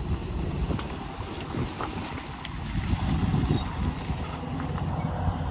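Pickup truck engine running steadily, with wind rumbling on the microphone.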